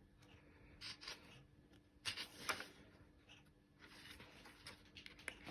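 Faint rustling of paper as the pages of a colouring book are turned and handled, a few brief strokes about a second in and again around two seconds in.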